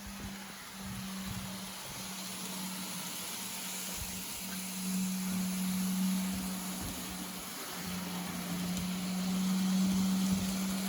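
N scale model locomotive running along the track: a steady low motor hum with a faint hiss, cutting in and out briefly and swelling louder around the middle and again near the end.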